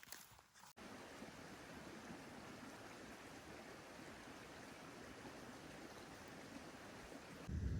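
Steady rushing of a stream, starting abruptly about a second in. A louder low rumble cuts in just before the end.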